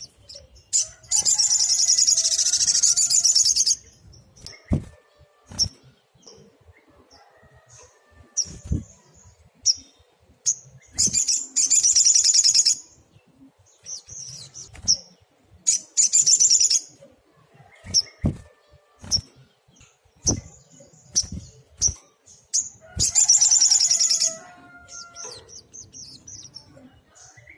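A sunbird singing: four loud, very rapid high trills of one to three seconds each, with short high chirps between them. A few sharp low thumps are mixed in.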